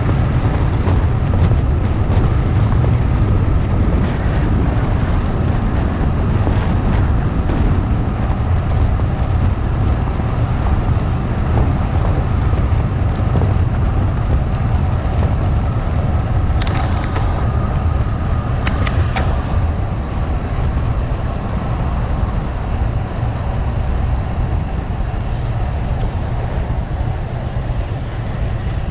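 Gravel bike rolling over rough gravel, a steady low rumble of tyres on loose stones, with two short sharp rattles a little past halfway.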